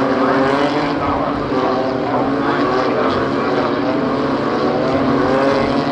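Several BMW M2 CS race cars' twin-turbo straight-six engines running hard together, their pitches wavering up and down as they accelerate and change gear.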